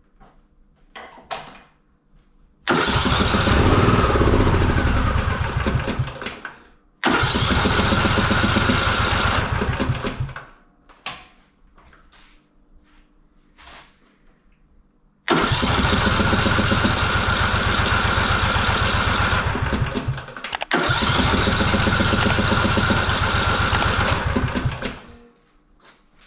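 Husqvarna Rider 213c's Briggs & Stratton engine being cranked with the key four times, each go lasting three to five seconds: two close together, a pause, then two more. Each burst starts suddenly and dies away when the key is let go.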